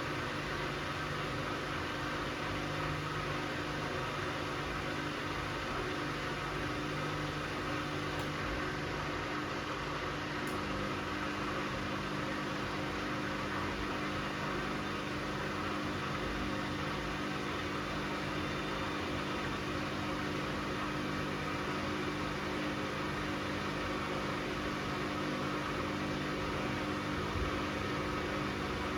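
Bosch Classixx 6 front-loading washing machine spinning steadily at 600 rpm in an intermediate spin between rinses, a steady whir with a motor hum whose low tone shifts slightly about ten seconds in.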